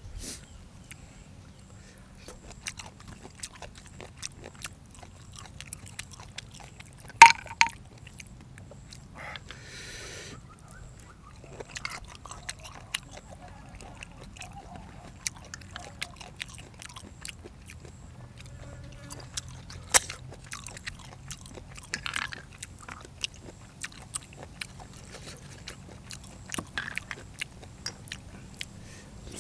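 A person chewing and biting food close to the microphone, with many short wet clicks and crisp crunches and a few louder sharp clicks.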